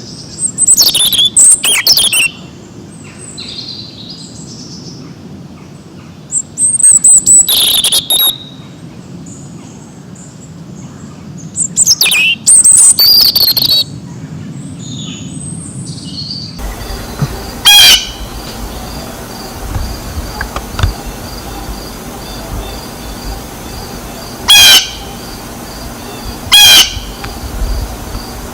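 Recorded bird calls: loud, quickly falling calls in three groups over the first half, then a second recording with a steady background hiss and single short, sharp calls every two to seven seconds.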